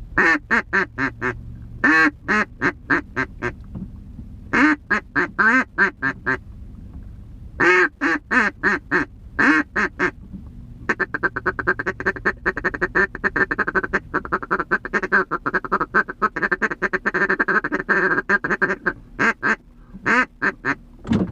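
Hand-blown duck call sounding quacks: several short runs of quacks, then a long fast chatter of rapid notes from about 11 to 19 seconds in, then a few more quacks.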